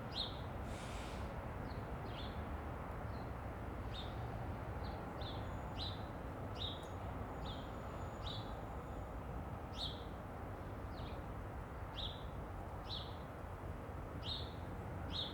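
A bird repeating short, falling chirps, one every half-second to a second, over a steady low outdoor rumble and hiss.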